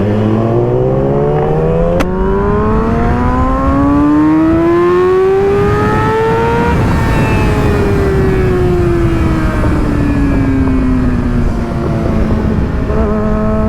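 Sport motorcycle engine under hard acceleration, its pitch climbing steadily for about seven seconds, then dropping as the throttle comes off and levelling into a steady cruise near the end, over rushing wind noise.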